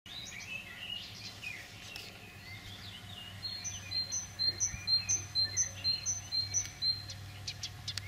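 Birdsong with several small birds chirping. In the middle, one bird repeats a clear two-note phrase, a higher note then a lower one, about eight times at an even pace.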